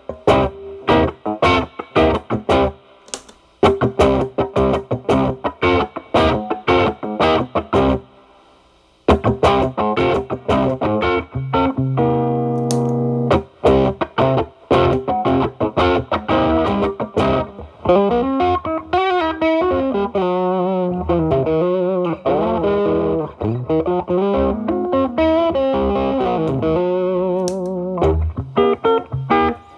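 Gibson SG electric guitar with a humbucker through an MXR Distortion+ pedal into a Marshall Valvestate amp's drive channel, played as short picked notes and chords. The pedal starts at minimum distortion; from about 13 s in it is stacked as a gain boost into the drive channel, with a held chord followed by bent, vibrato lead lines.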